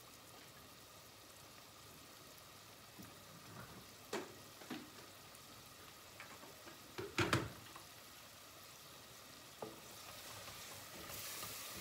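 Tomato paste sizzling quietly as it fries in a stainless steel pot, with a few sharp clicks and knocks, the loudest about seven seconds in.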